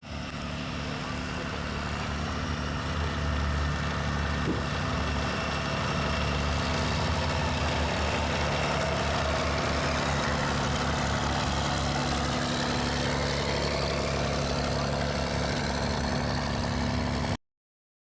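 A car engine idling steadily, a low even running note.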